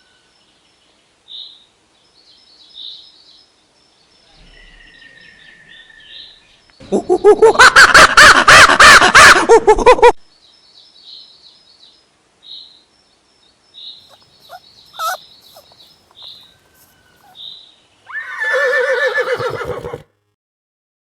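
Farm animal calls: a loud, rapidly pulsing call lasting about three seconds, starting about seven seconds in, and a shorter one near the end, with faint short high chirps repeating in between.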